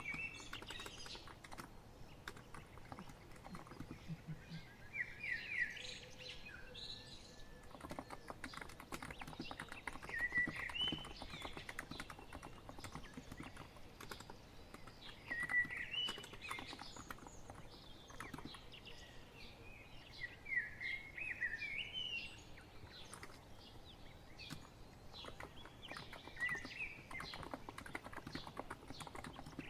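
Continuous typing on a COX Empress electro-capacitive (Topre-style) keyboard, a dense run of soft key clicks. A songbird sings short chirping phrases about every five seconds behind it.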